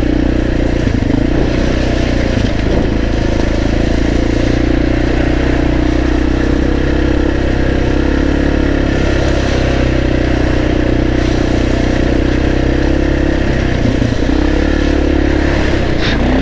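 Motorcycle engine running steadily under way, its pitch holding fairly level, easing off briefly about fourteen seconds in and then picking up again.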